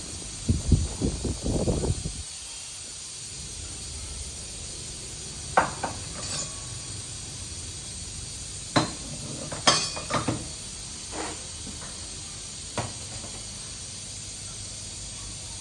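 Hard objects, likely metal tools or parts, knocking and rattling for about a second and a half near the start, then clinking about half a dozen times, spread out, over a steady hiss.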